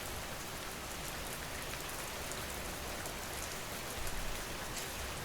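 Steady rain falling, an ambient rain-sound track, with a low rumble coming in about four seconds in.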